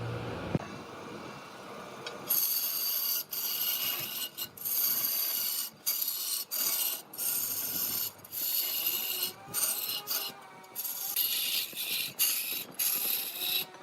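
A turning tool cutting wood on a lathe: rasping, with a high singing edge, that starts about two seconds in and goes on in passes broken by short breaks.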